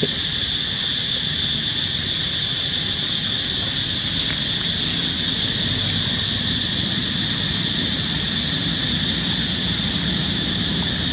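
Steady outdoor ambience: a constant high-pitched hiss over a low rumble, with no change in level.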